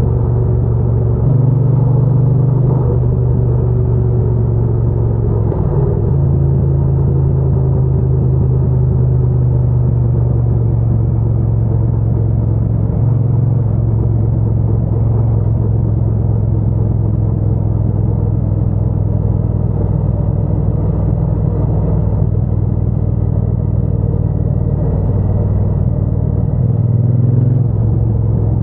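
Triumph Bonneville T120's 1200 cc parallel-twin engine running through its exhaust while riding at a steady cruise: a loud, continuous low rumble, with small changes in engine speed about a second in, around six seconds in, and near the end.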